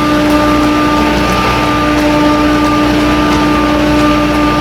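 Water-cooled screw chiller running: a steady, loud machine drone with a constant hum pitch over a wash of mechanical noise.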